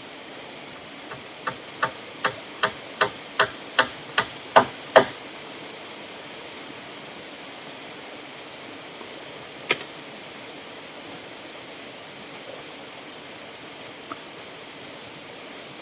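Hammer driving a nail into wood: about ten quick, even blows, each louder than the last, then a single strike a few seconds later, over a steady hiss.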